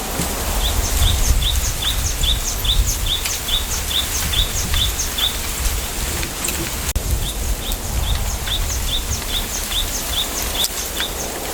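A small bird calling in two quick runs of short, high, falling notes, about three a second, with a pause of a couple of seconds between runs. Under it is the steady hiss and low rumble of wind through a bamboo grove.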